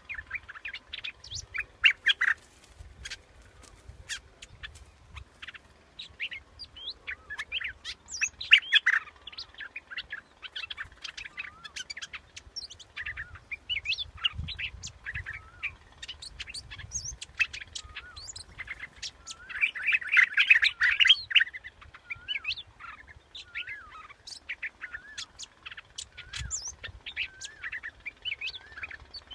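Bulbul singing: a run of short chirps and fluid whistled phrases rising and falling in pitch, with a dense burst of calling about two-thirds of the way in. It is a decoy call recording meant to draw in birds of the same kind.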